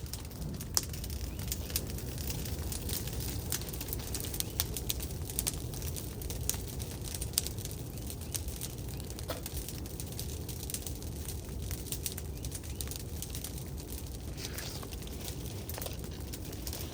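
Burning brush pile crackling, with irregular sharp pops over a steady low rumble.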